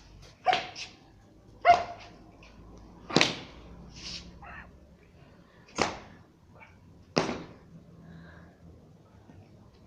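A dog barking: single sharp barks every second or two, some in quick pairs, about seven in all.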